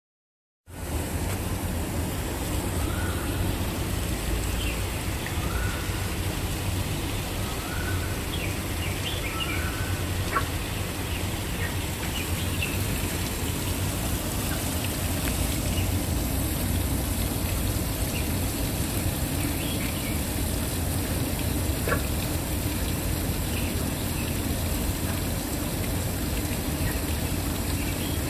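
Waterfall rushing steadily. A bird gives four short calls, about one every two seconds, in the first third, with a few faint chirps scattered over it.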